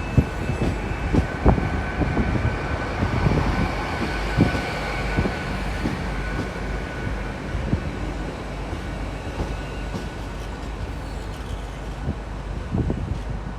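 Train running, with a steady high whine over a rumble and irregular low thumps.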